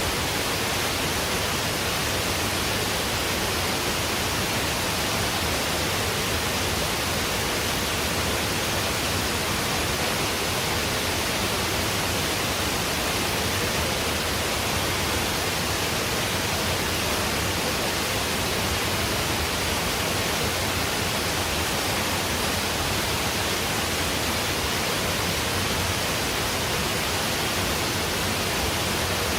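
Waterfall: a steady, unbroken rush of falling water at an even level throughout.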